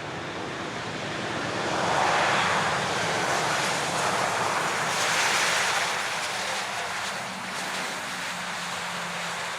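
Jet noise of a Boeing 737 passing low on its landing approach: a rushing roar that swells about two seconds in, peaks again around five seconds, then eases to a lower, steadier hum.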